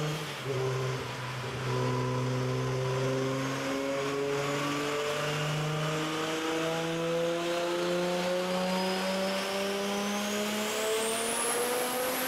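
Turbocharged Toyota Supra straight-six running under load on a chassis dyno, its engine note climbing in pitch in small steps as the revs are raised. A high whine rises sharply in pitch near the end.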